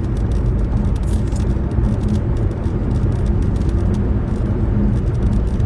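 Steady low road rumble inside a moving car's cabin, with light crackling on top.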